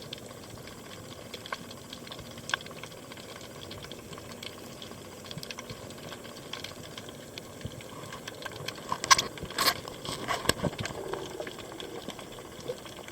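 Underwater ambience while freediving: a steady hiss with scattered sharp clicks, and a burst of louder clicks and bubbling about nine to eleven seconds in.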